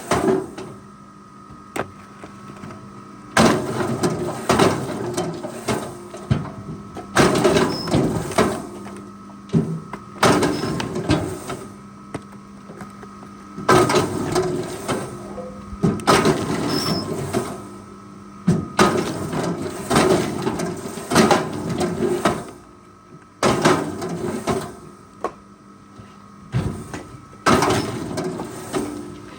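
Forestry machine at work: an engine running steadily, broken roughly every three seconds by loud bursts of clattering and scraping.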